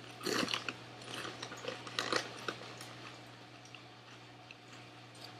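Crunchy chewing of a Lay's cheddar and sour cream potato chip coated in cheese dip. Sharp crunches come in the first two and a half seconds, loudest around two seconds in, then trail off into quieter chewing.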